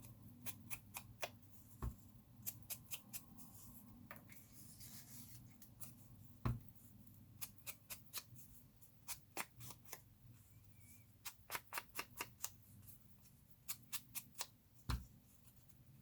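Hands handling paper and craft pieces: many light, irregular clicks and snips, with a quick cluster about three quarters of the way through and three soft thumps.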